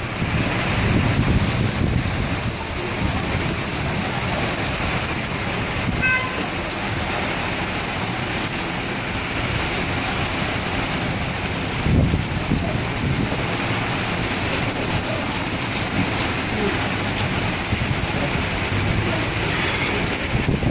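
Heavy rain from a thunderstorm pouring down steadily. There is a brief beep about six seconds in and a single thump about twelve seconds in.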